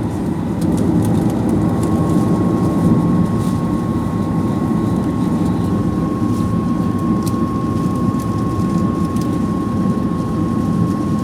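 Steady cabin noise inside a Boeing 737-800 with its engines running on the ground: a loud, even rumble, joined about two seconds in by a steady high tone.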